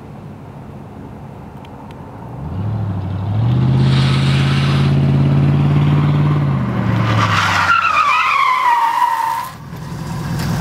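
1991 Mercury Grand Marquis's 5.0 litre V8 on its factory exhaust, idling, then floored from a stop about two and a half seconds in: the engine note rises and holds steady at high revs. Then the tyres squeal briefly, falling in pitch, as the car pulls past near the end.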